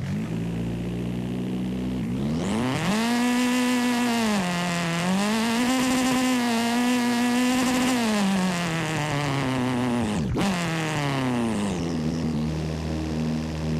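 Car engine sound in a driving video game: it revs up about two seconds in, holds at high revs with small dips, then eases off from about eight seconds in, drops out briefly around ten seconds, and settles to a lower steady note.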